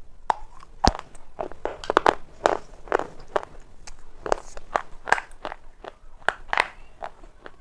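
Dry black shale stone being bitten and chewed: a run of irregular sharp crunches and cracks, several a second.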